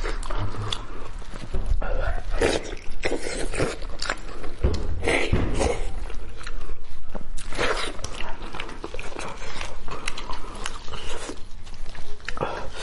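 Close-miked biting and chewing of stewed head meat, a run of irregular clicks and smacks from the mouth.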